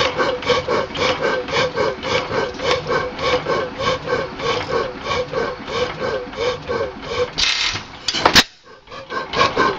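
1918 Waterloo Boy 14 hp hit-and-miss gas engine running with no muffler: a steady, even beat of about three to four strokes a second. About eight seconds in there is a sharp loud crack and the sound briefly drops away before the beat resumes.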